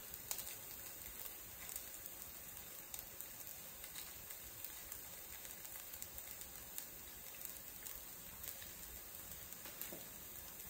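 Cheese frying in its own leached oil in a non-stick frypan: faint, steady sizzling with scattered small crackles.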